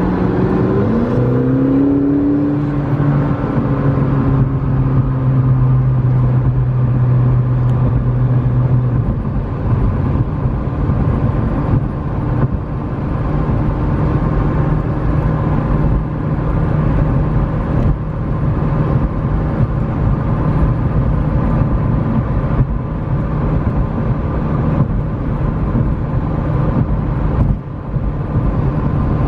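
McLaren 650S Spyder's twin-turbo V8 running at highway speed over steady tyre and road noise. The engine note climbs briefly in the first couple of seconds, then holds steady.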